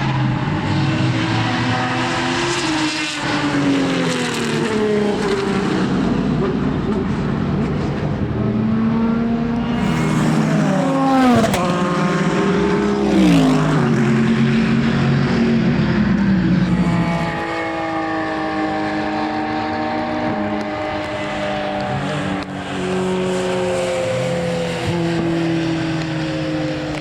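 Racing car engines running hard on track, the pitch climbing through each gear and dropping at every shift, with quick falls and blips through the downshifts around the middle. About seventeen seconds in the sound changes to a steadier engine note that sweeps more gently.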